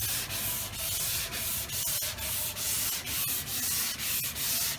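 Hand block-sanding a Chevelle door panel: sandpaper on a soft sanding block rasping back and forth over the curved door skin in quick, even strokes, about three a second.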